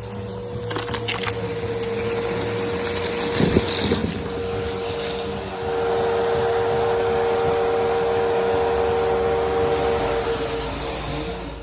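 Vacuum cleaner running with a steady hiss and whine, with a couple of knocks in the first few seconds. About halfway through it gets louder and its whine changes, then it cuts off near the end.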